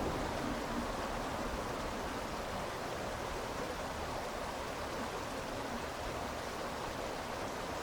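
Steady rush of flowing river water, an even noise without distinct splashes or calls.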